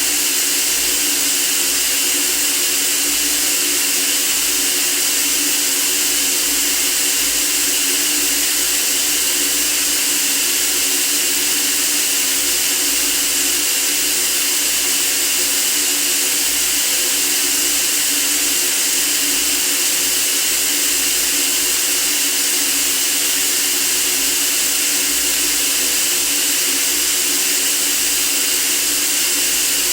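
Steady white-noise hiss for sleep, bright and hissy in tone, with no changes or breaks.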